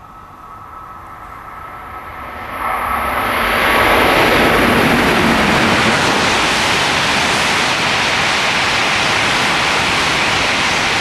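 Tohoku Shinkansen bullet train passing through a station at high speed without stopping: its rushing noise swells sharply about two and a half seconds in and stays loud.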